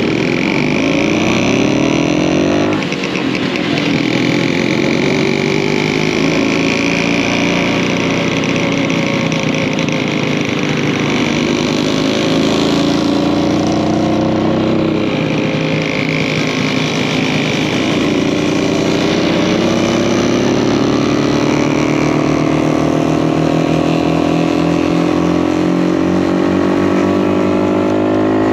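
1952 DKW RT 200H motorcycle's single-cylinder two-stroke engine running under way, its revs rising and falling repeatedly, with a brief drop about three seconds in.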